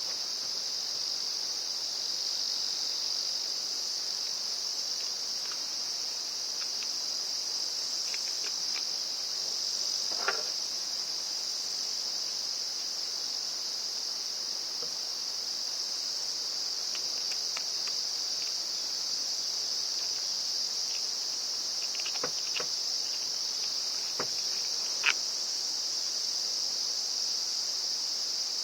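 Steady high-pitched insect chirring throughout, with a few faint clicks and taps scattered through it, the sharpest near the end.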